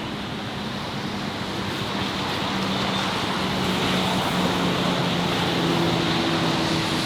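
City street traffic: a steady rush of passing vehicles with a low engine hum, growing louder over the first few seconds as a vehicle comes near.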